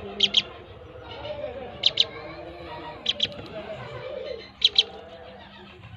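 White-headed stilt chicks calling: four sharp, high double peeps, spaced a second or more apart.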